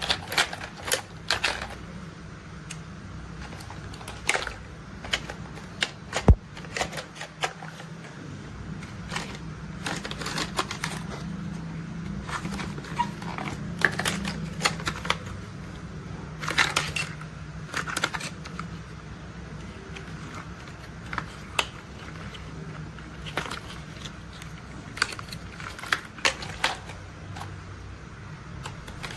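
Irregular sharp clicks and taps of hard plastic toy construction vehicles being handled, coming in quick clusters, over a low steady hum.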